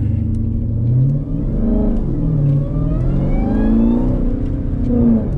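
Jeep Grand Cherokee Trackhawk's supercharged V8 accelerating, its pitch climbing and dropping back several times, with a thin whine rising along with it in the middle.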